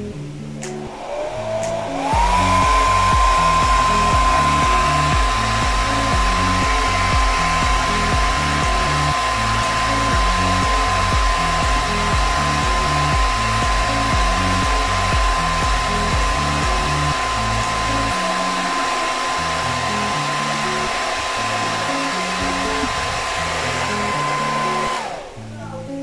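Infinix foldable hair dryer with a diffuser switched on, its motor whine rising for about two seconds to a steady high tone over a loud rush of air. It runs steadily, then is switched off near the end, the whine falling away.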